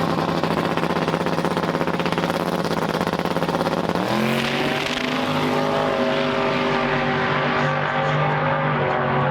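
Drag race car engine running at a steady raised speed, then revved up about four seconds in and held at the higher speed.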